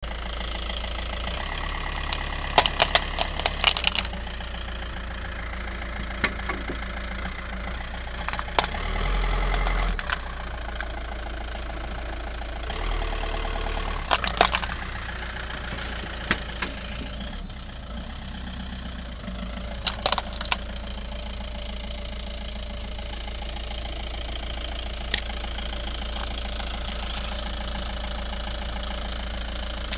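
Car engine idling steadily. Short bursts of sharp clicks and knocks come about three, eight, fourteen and twenty seconds in.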